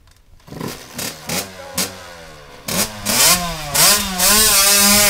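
Dirt bike engine catching with a few short bursts, then running and revved up and down several times, loudest in the last two seconds.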